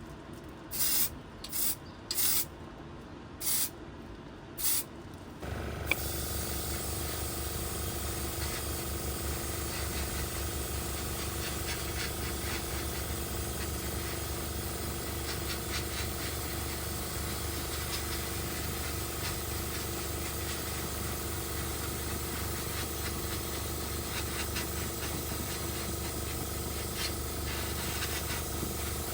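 About six short hissing bursts, then a small electric motor starts and runs steadily with a hum and a fine rubbing, grinding texture, as a hand tool works on a small part.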